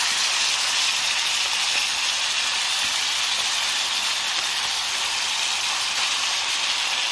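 Chicken breast pieces sizzling steadily as they brown in butter in a hot skillet.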